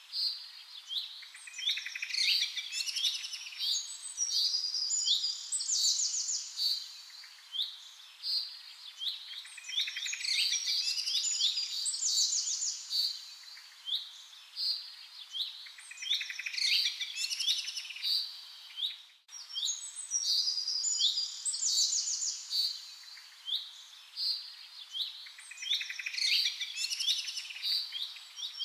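Several songbirds chirping and calling together in a dense, overlapping chorus of short high chirps and rapid trills, with a brief dropout about nineteen seconds in.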